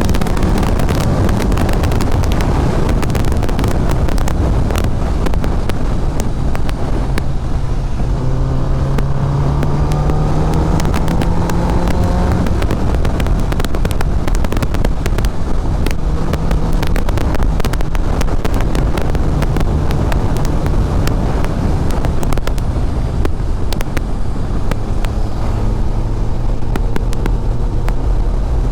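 Inline-four superbike engine running at road speed under heavy wind buffeting on the microphone. Its pitch climbs steadily for a few seconds as the bike accelerates about a third of the way in, then drops back.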